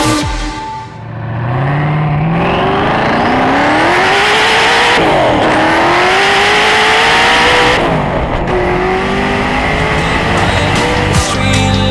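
Hennessey Venom GT's twin-turbo V8 accelerating at full throttle, its pitch rising steadily through the gears. The pitch drops sharply at upshifts about five seconds and about eight seconds in, then climbs again.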